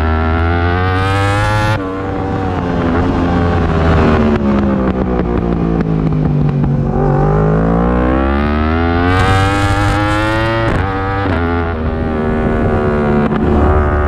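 Yamaha R1 inline-four racing engine at high revs, heard from on board: it climbs and shifts up about two seconds in, then drops in pitch through a long braking phase with downshifts, and climbs hard again with quick upshifts near the end. Wind rush comes in at the fastest point.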